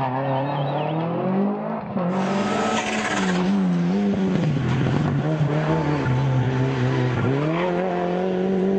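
Rally car engine at full throttle on a stage, its note rising and dropping repeatedly as the driver goes up and down the gears and on and off the throttle.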